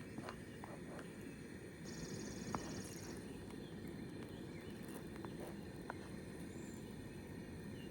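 Outdoor nature ambience: a steady low rushing background with a short, high, rapidly pulsing insect trill about two seconds in, and a few light clicks.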